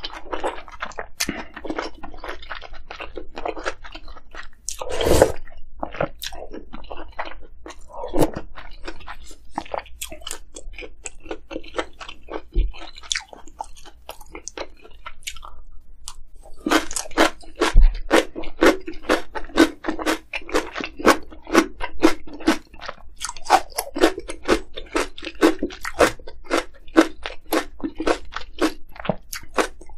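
Close-miked chewing of crunchy kimchi: crisp mouth crunches, softer and sparser at first with one louder crunch about five seconds in, then a quick steady run of several crunches a second through the second half.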